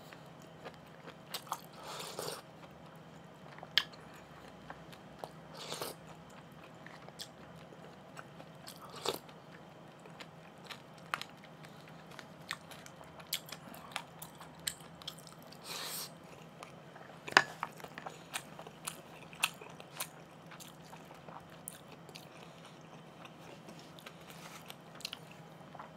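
Close-miked chewing and mouth sounds of someone eating, with scattered light clicks and taps of a spoon and chopsticks against a plastic takeout container, over a faint steady hum.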